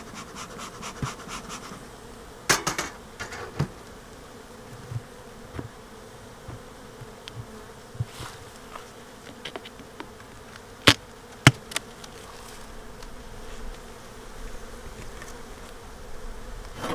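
Honeybees humming steadily around a hive, with a few sharp knocks and taps, the loudest two close together about eleven seconds in.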